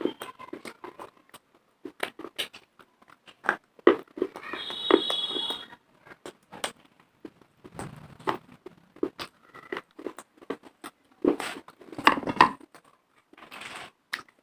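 Close-up biting and crunching of dry baked clay pieces: many irregular sharp cracks and crackles. A brief high-pitched tone sounds about five seconds in.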